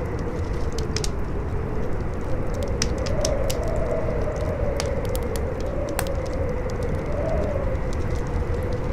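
Howling wind, a whistling tone that rises and falls over a low rumble, with a wood fire crackling and popping throughout in many sharp snaps.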